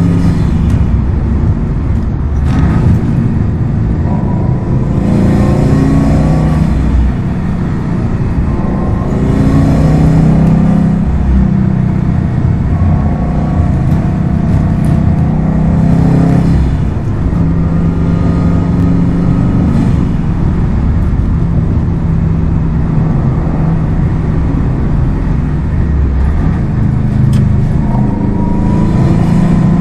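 Subaru WRX STI's turbocharged flat-four engine and exhaust under hard driving, revving up and easing off again and again, the pitch climbing and dropping every few seconds.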